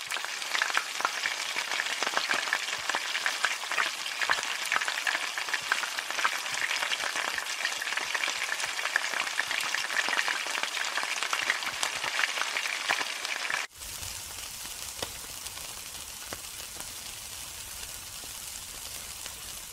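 Food crackling and sizzling as it fries in hot oil in a wok, thick with tiny pops. About fourteen seconds in it cuts abruptly to a quieter, steadier sizzle with a low rumble underneath, as meat skewers cook on a grill.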